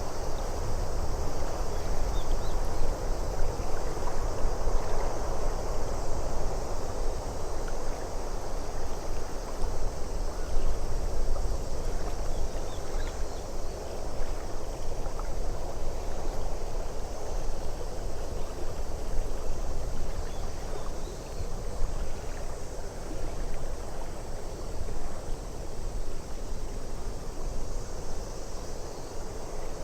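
Steady wind-and-water nature ambience: a continuous rushing noise over a deep rumble, with faint small ticks, easing slightly in the second half.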